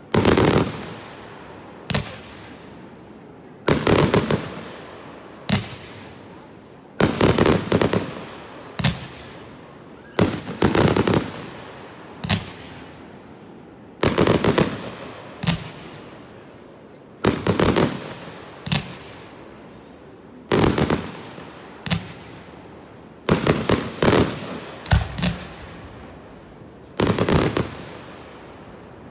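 Fireworks display: aerial shells launching and bursting one after another, a loud boom every couple of seconds, some in quick clusters of several, each fading off in an echoing tail.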